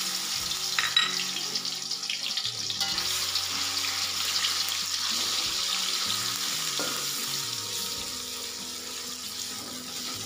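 Ground spice paste of garlic, shallot, galangal, ginger, turmeric and chili sizzling as it fries in hot oil in a steel wok while being stirred with a metal spatula. The sizzle eases a little toward the end.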